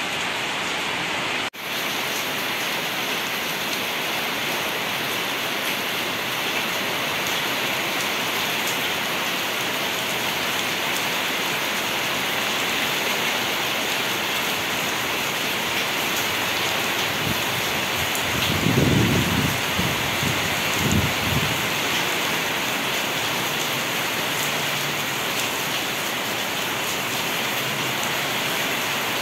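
Steady rain falling, an even hiss that dips for an instant about a second and a half in. About two-thirds of the way through comes a brief low rumble, with a shorter one just after.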